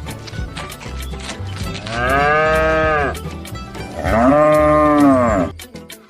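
A cow mooing twice, two long calls that rise and fall in pitch, over background music.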